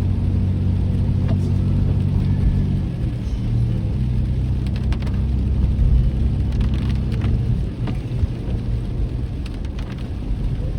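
Rain and road noise inside a moving car, with low held notes of a hymn playing from the car's audio; the notes change about three seconds in and fade out about three-quarters of the way through.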